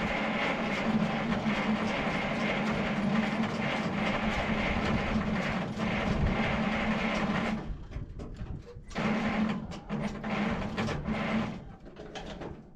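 A car's starter motor cranks the engine steadily for about eight seconds without it firing, then gives three short bursts of cranking. The engine, which has sat all winter, turns over but won't catch.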